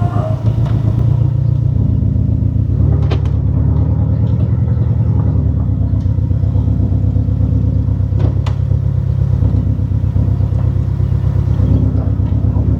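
Porsche 718 Cayman's turbocharged flat-four, fitted with an aftermarket turbo inlet pipe, running at low, fairly steady revs, heard from inside the cabin, with intake and mechanical noise. The engine pitch steps a little a few times, and there are brief sharp clicks about three and eight seconds in.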